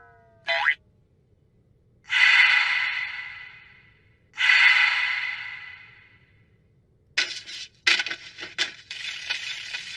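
Cartoon sound effects: a short blip, then two long breathy whooshes that each fade away slowly, followed near the end by a run of rapid scratchy clicks.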